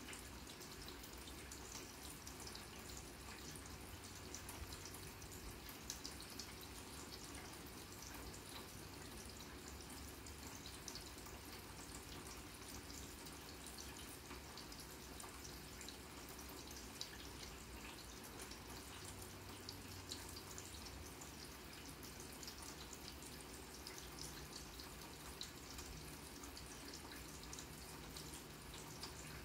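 Rain falling on a grass lawn: a faint, steady patter of many small drops, with a few louder single drips standing out now and then.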